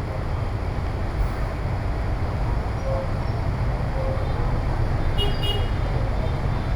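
Steady street traffic noise with a low rumble, and a vehicle horn giving a short double toot about five seconds in.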